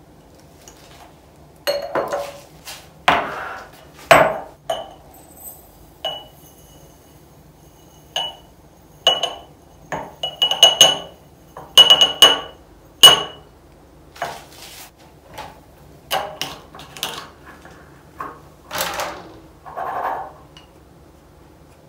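Spice jars and their lids being handled and set down, with a series of sharp clinks and knocks, several ringing briefly like glass; the busiest and loudest run of clinks comes in the middle.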